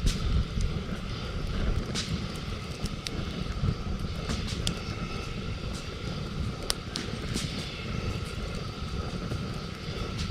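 Campfire crackling, with sharp pops every second or two over a steady low rumble.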